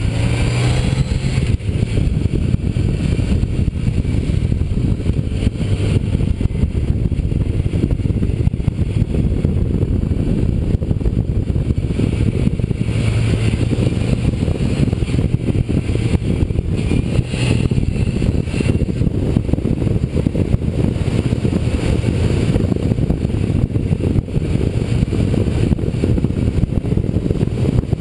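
Motorcycle running at road speed, a steady engine drone mixed with heavy wind rumble on the camera's microphone.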